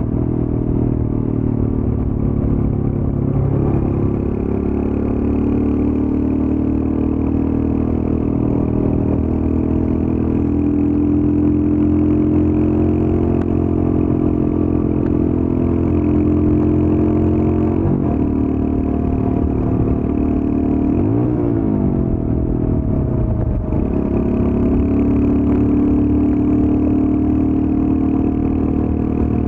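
Royal Enfield Scram 411's single-cylinder engine through its stock exhaust, running steadily under way. The engine note dips and climbs again a few times in the second half.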